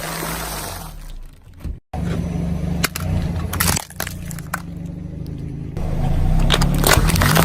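Objects cracking and breaking as they are crushed, a few sharp cracks over a low steady rumble, with a sudden cut to silence just before two seconds in.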